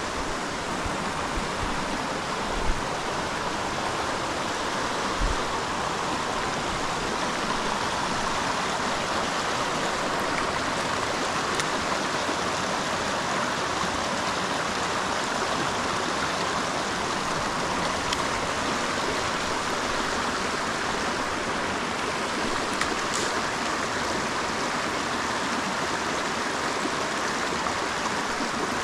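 Creek water running steadily over rocks, with two soft knocks about three and five seconds in.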